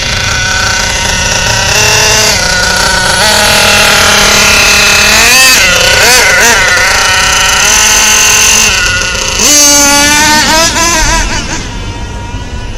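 Kyosho Mad Force RC monster truck's small nitro engine revving up and down at high pitch, with quick warbling blips around the middle and again later. It eases back to a lower level near the end.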